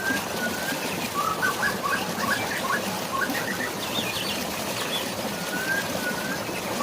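Steady hiss of rain and flowing water with birds calling over it. A drawn-out whistle comes at the start and again about five seconds in, with quick runs of chirps in between.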